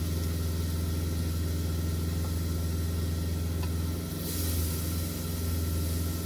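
Semi-truck's diesel engine idling steadily, heard from inside the cab as a low, even hum. A brief hiss rises over it about four seconds in.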